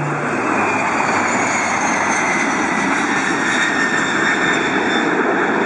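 Jet airplane engine noise: a steady rushing sound with a faint high whine that slowly drops in pitch.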